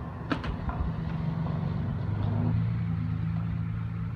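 A car engine running close by, a low steady hum that swells to its loudest about two to three seconds in. Two sharp clicks come near the start.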